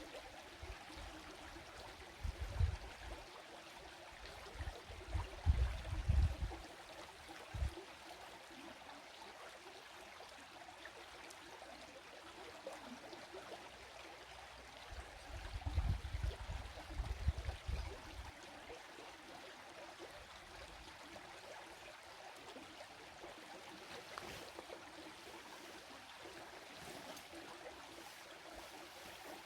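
Steady rush of a stream flowing, with a few brief low rumbles against the microphone about two, five to six, and sixteen to eighteen seconds in.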